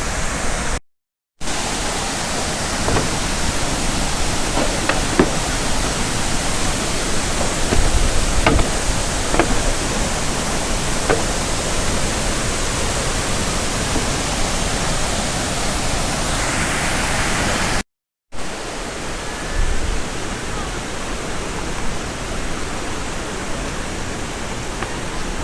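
Tad Yuang waterfall's steady rush of falling water, loud and even, cutting out briefly twice.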